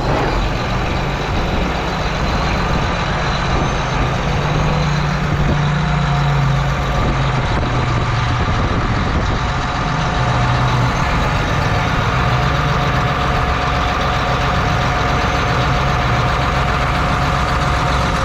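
Engine running steadily at idle just after being started; the owners say it has a knocking noise and an oil leak they cannot trace.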